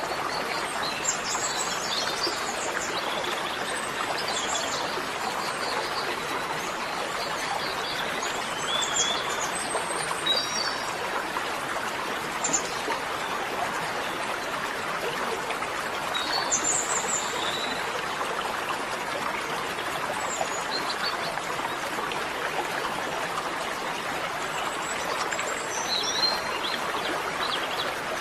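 Small birds chirping in short bursts every few seconds over a steady rushing hiss, like running water.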